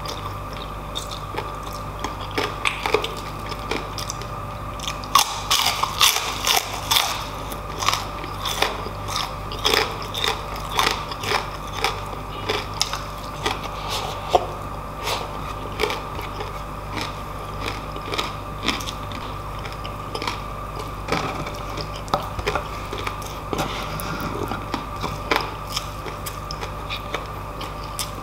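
Close-miked chewing with wet mouth sounds and irregular crunching as crispy fried pork belly crackling is bitten and chewed along with rice, over a faint steady hum.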